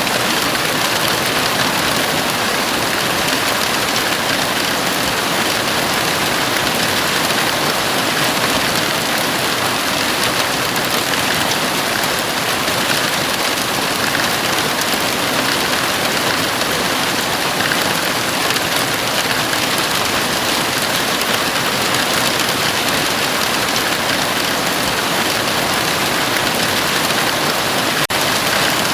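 Heavy rain falling steadily on a house roof, a dense even hiss with no let-up.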